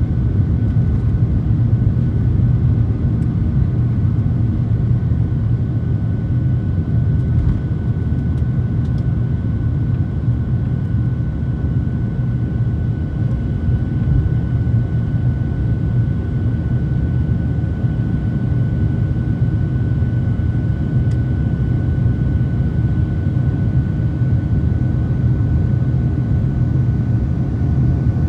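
Boeing 737-700 cabin noise: the CFM56 engines' steady low rumble with a thin, steady whine over it.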